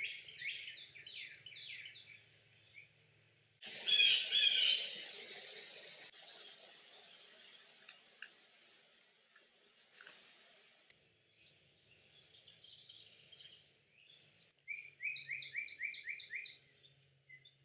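A songbird singing series of quick, down-slurred chirps, several a second, over a steady high insect drone. About four seconds in comes a loud, noisy burst lasting about a second and a half.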